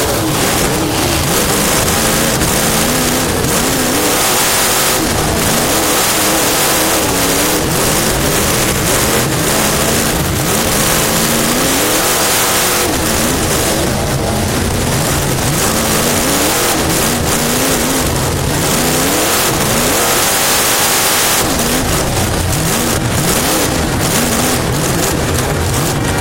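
Race car engine heard from inside the car, its revs rising and falling again and again as the throttle is lifted and reapplied, under a loud, steady hiss.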